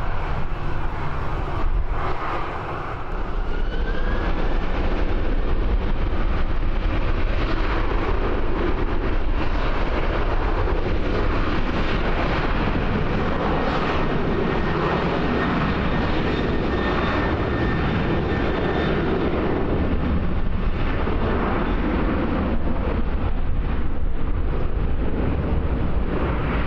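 A passenger aircraft's turbine engines run at the airport, with a whine that rises about three seconds in and then holds steady. Heavy wind rumble on the microphone sounds throughout.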